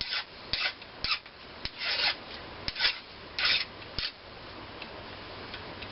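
Hand file scraping across metal in about seven uneven strokes, smoothing down a burr on an old engine part. The strokes stop about four seconds in.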